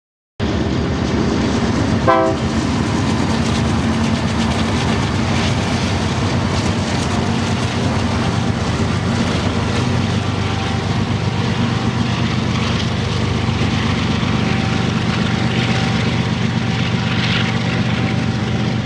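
Diesel locomotives of a freight train running by, a loud steady engine drone with the rumble of the rail cars underneath. A short rising squeal cuts in about two seconds in.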